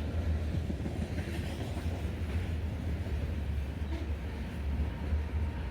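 Metra commuter train running at a station, a steady low rumble with a faint hiss above it.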